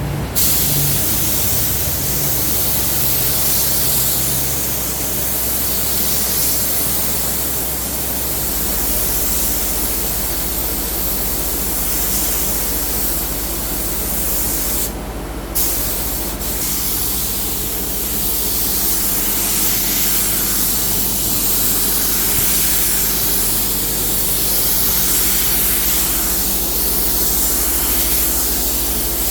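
Steady loud hiss of a compressed-air spray, cutting out briefly about halfway through and starting again.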